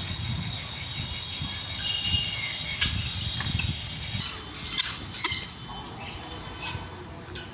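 Several birds chirping and squawking, with short sharp calls repeating, a few falling squawks about two and five seconds in, and a steady high trilling behind them.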